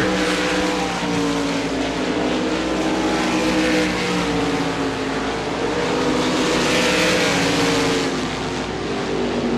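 Several RaceSaver sprint cars' V8 engines running at racing speed. Their pitches rise and fall slowly as the cars lift and get back on the throttle.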